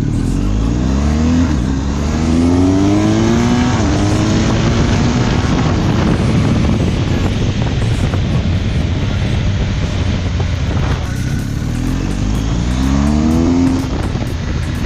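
BMW R 1250 GS's boxer-twin engine running under acceleration, its pitch climbing in repeated rising sweeps as it pulls through the gears during the first four seconds, and again about twelve seconds in.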